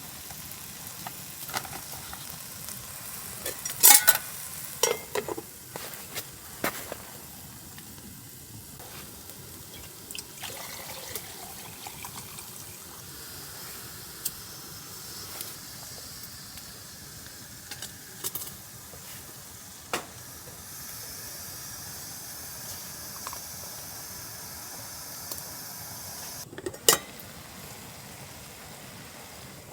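Steady sizzling hiss of cooking on a wood stove, with scattered small clicks and two loud knocks, one about four seconds in and one near the end.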